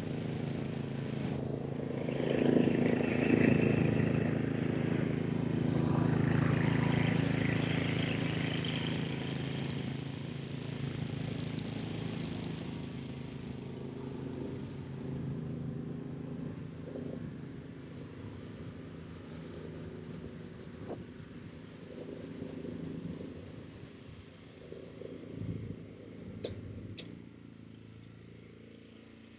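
Ariens Professional 32 two-stage snowblower's engine running steadily as it clears snow. It is loudest in the first several seconds and grows steadily fainter through the rest.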